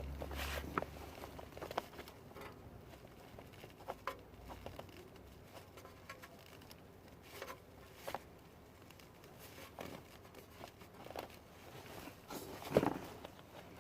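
Faint, scattered handling sounds of hands working two-part epoxy putty: light clicks and rustles, with one louder knock near the end.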